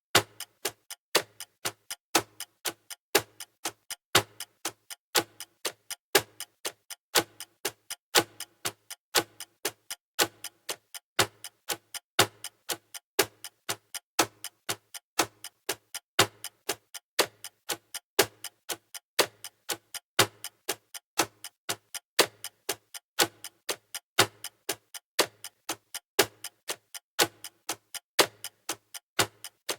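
Clock ticking sound effect for a countdown timer: a steady run of sharp ticks, about four a second, the first of each second louder.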